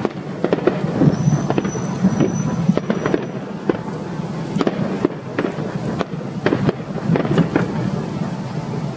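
Fireworks display: a rapid, irregular string of bangs and crackles with no let-up, and a thin high whistle about a second in that lasts roughly two seconds.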